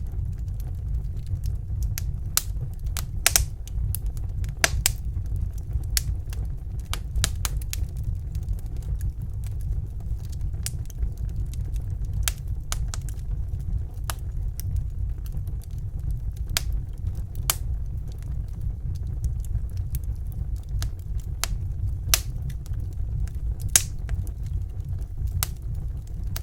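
Wood fire in a fireplace crackling: sharp, irregular pops and snaps, a few a second, over a steady low rumble.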